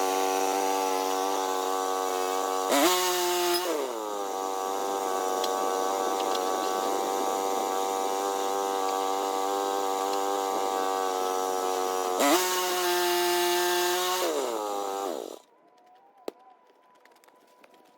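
Small Woodland Mills sawmill's gas engine running steadily. Its pitch jumps up briefly about three seconds in and again around twelve seconds. It then winds down and stops about fifteen seconds in.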